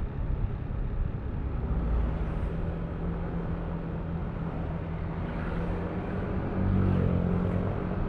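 Yamaha Aerox V3 scooter's 155 cc single-cylinder engine running steadily under way, with wind and road noise over it. The engine grows louder for about a second near the end.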